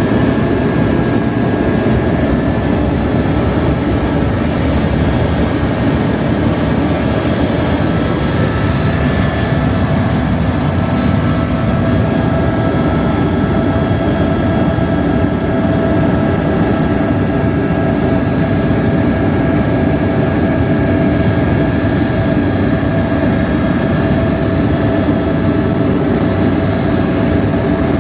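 Helicopter in flight: a steady, loud drone of rotor and engine with a few constant high tones running through it.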